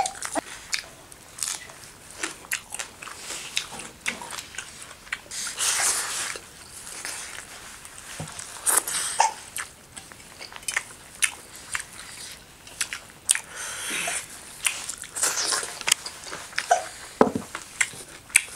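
Close-up eating sounds: chewing and smacking with many short crunches and clicks, from people eating rice and chicken gizzard curry by hand.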